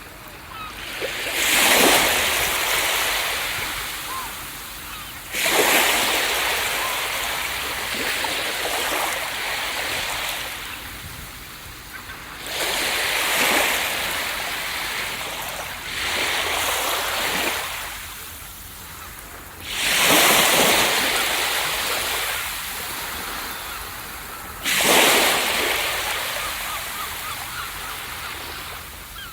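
Ocean waves breaking on a beach, one after another: five surges of surf a few seconds apart, each rising quickly and then fading as the water washes back.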